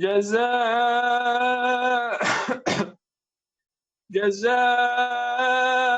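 A man chanting Quran recitation in melodic tajweed style in maqam Saba, holding long, slowly bending notes. About two seconds in the chant breaks off with a cough, falls silent for about a second, then resumes with another long held note.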